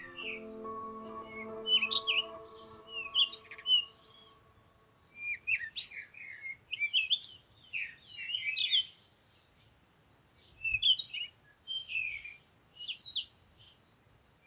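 A songbird singing in bouts of quick, high chirps and short gliding whistles, with pauses between phrases. Soft sustained music underneath fades out in the first few seconds.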